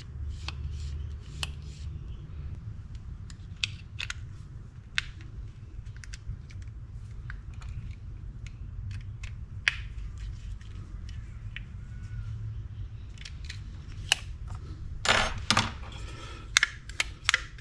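Scattered light clicks and taps of small metal reel parts and tools being handled and fitted, with a cluster of quicker clicks near the end, over a steady low hum.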